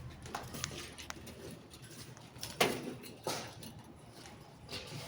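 A parrot calling: two short loud calls about halfway through, among faint clicks and scuffles.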